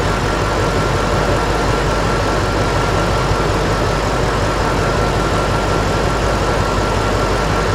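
Ford 5.4-litre V8 of a 2004 Lincoln Navigator idling rough with a misfire, its number four ignition coil unplugged; the idle stays steady with no change at all. A faint steady high whine runs alongside.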